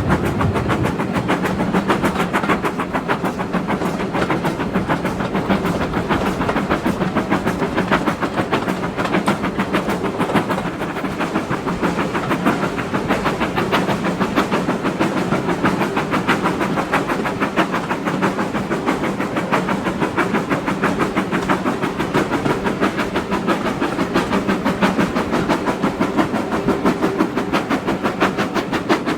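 GWR-style 2-6-0 steam locomotive No. 9351 under way hauling its train, a fast, even exhaust beat over a steady hum of running gear and rails.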